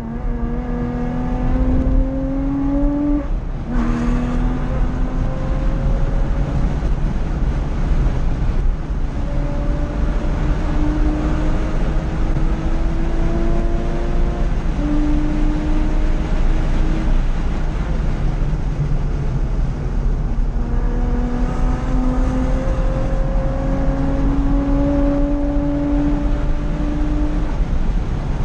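Porsche 911 Carrera 2 (997) flat-six engine heard from inside the cabin under hard acceleration on track. Its pitch climbs through each gear and drops at each upshift. Partway through there is a lull off the throttle before it pulls again, over steady road and wind noise.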